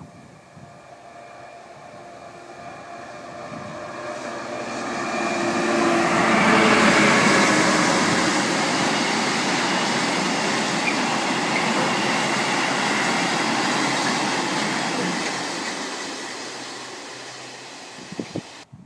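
A freight train hauled by a Class 66 diesel locomotive passing by. The engine's steady tones grow as it approaches, the passing is loudest for about ten seconds as the long rake of wagons goes by, then it fades away, and the sound cuts off abruptly near the end.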